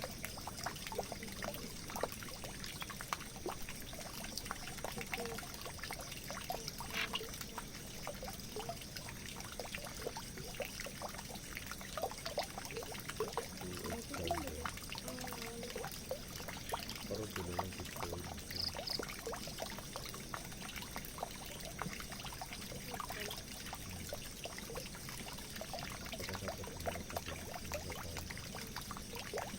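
Water pouring and trickling steadily into a drain, a continuous splashing flow with many small drips and splashes.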